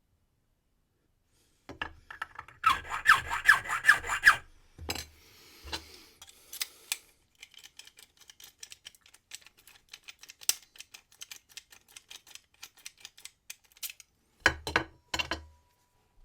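Hand file rasping on a brass key blank: a quick run of about eight strokes, then scattered light metallic clicks and scrapes, and two short file strokes near the end.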